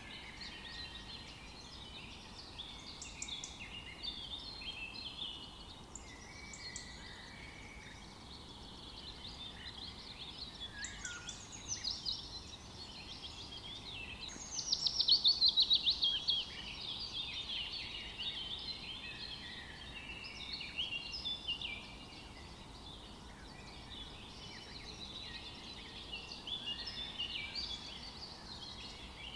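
Forest birdsong: several birds chirping and singing over a faint steady hiss, with one loud, rapid trill about halfway through.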